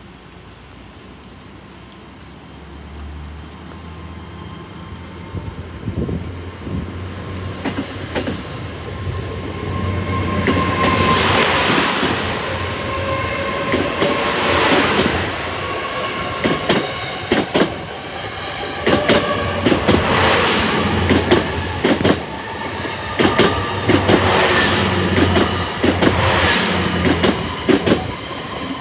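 GWR Hitachi Intercity Express Train pulling away from the platform on its underfloor diesel engines, the low engine hum building over the first few seconds. As the carriages roll past, the wheels click over the rail joints in repeated clusters, with a thin high wheel squeal coming and going on the curve.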